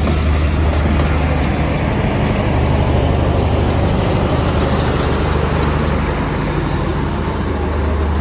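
Passenger train rolling out along the platform, its wheels and coaches giving a steady rumble over a constant low diesel hum.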